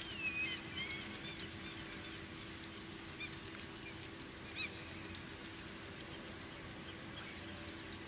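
Faint bird calls: a few short, high chirps in the first second or so, another chirp around three seconds in and a short call about four and a half seconds in, over a low steady hum.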